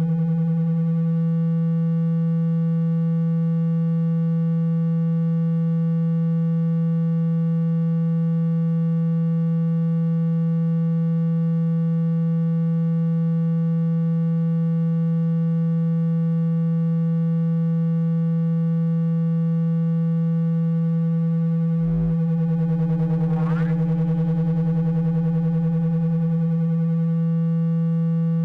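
A steady low electronic tone, a hum of about 165 Hz with faint overtones, played as a vibration sound to shake water out of a phone speaker. A brief click comes about 22 seconds in, followed by a short rising sweep in the upper tones.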